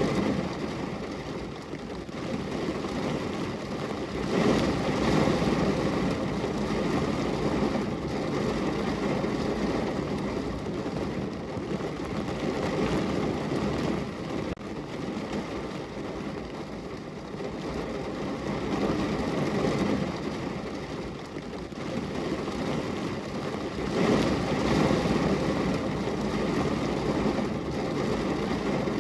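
Steady rain falling on a window, a continuous hiss and patter that swells louder about four seconds in and again near the end.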